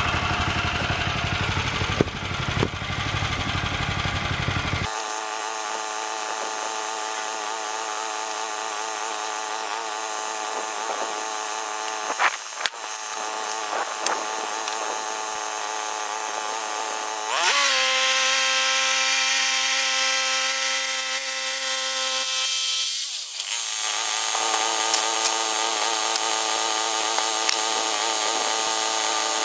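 Gas engine of a Woodland Mills HM122 portable bandsaw mill running steadily as the blade saws through a pine cant. About two thirds of the way in the engine pitch rises and holds for several seconds, then drops back.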